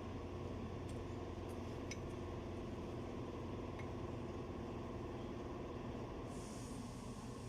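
A steady low mechanical hum, like a running engine, with a few faint metallic clicks and a short hiss near the end.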